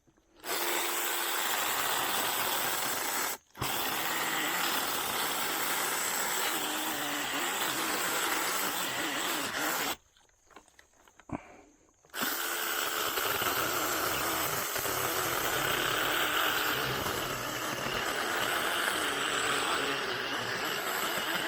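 Small 6-inch battery-powered mini chainsaw running and cutting wood in trigger-held stretches. It cuts out briefly about three seconds in, stops for about two seconds near the middle, then runs again.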